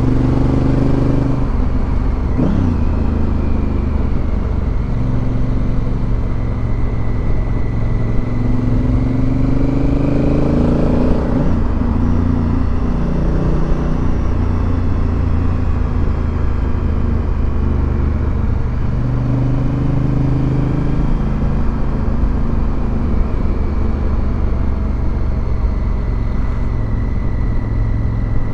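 Motorcycle engine running while riding, over steady wind and road noise. Its pitch drops and climbs again as it shifts gear, once a couple of seconds in and again a little before halfway.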